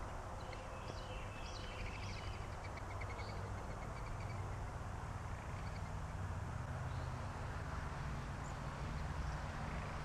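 Faint wild birds chirping, with a quick trill of rapid notes in the first half, over a steady low outdoor rumble.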